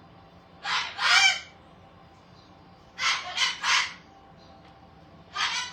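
Parrot screeching in harsh, raspy squawks: a pair about a second in, a quick run of three around three seconds in, and another starting near the end.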